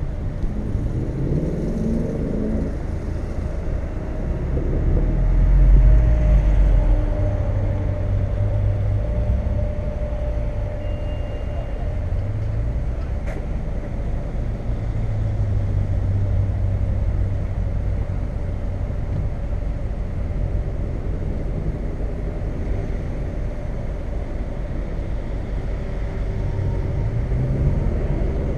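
A car's engine running at low speed, a steady low rumble whose note rises and falls as the car pulls along, swelling loudest about six seconds in and again near the end.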